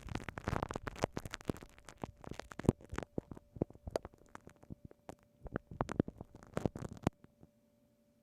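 Glue stick worked against a binaural microphone's ear: a dense, irregular run of small sticky clicks and crackles in clusters, stopping about a second before the end.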